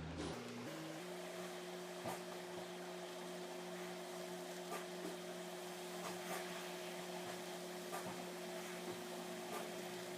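Steady low electrical hum, with faint ticks and taps scattered through it.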